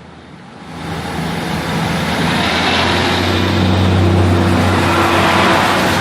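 A train approaching: engine drone and running noise grow louder over the first two seconds or so, then hold steady and loud.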